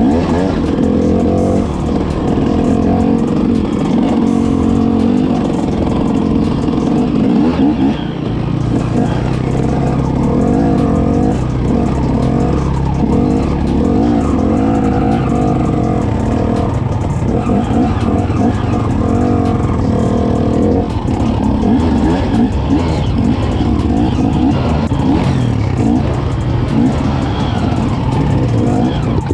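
Off-road vehicle engine running continuously under changing throttle, its pitch wavering up and down as it rides over rough ground.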